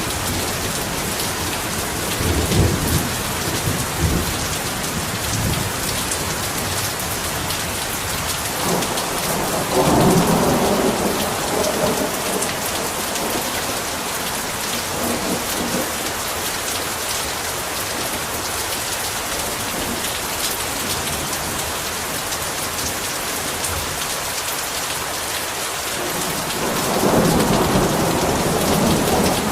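Heavy rain falling steadily, with rumbles of thunder a couple of seconds in, around ten seconds in, and again near the end.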